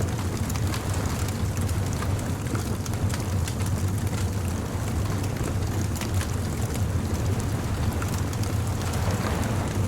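Beach bonfire ambience: a wood fire crackling with frequent sharp pops over a steady low rumble of surf.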